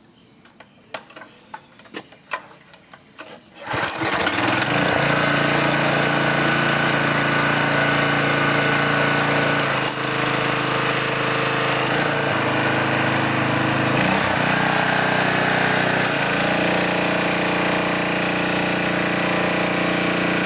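A few light clicks, then about four seconds in the pressure washer's small four-stroke engine starts and runs steadily, its pitch shifting slightly a few times as the load changes.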